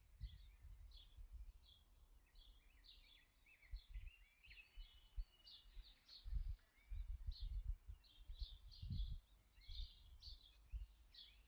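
Small birds chirping repeatedly, faint, with irregular low thumps and rumbles underneath.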